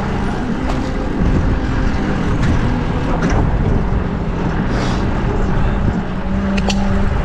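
Wind rushing over a bike-mounted action camera's microphone while riding a fixed-gear bicycle in city traffic, with the steady low hum of a nearby vehicle engine and a few short clicks.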